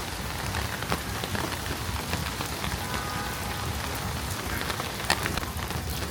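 Steady rain falling, with many separate drops ticking close by and one louder drop hit about five seconds in.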